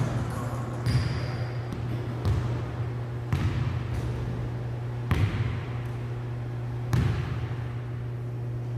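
Basketball bouncing on a hard gym floor, about six bounces at an irregular pace, each with a short echo in a large room, over a steady low hum.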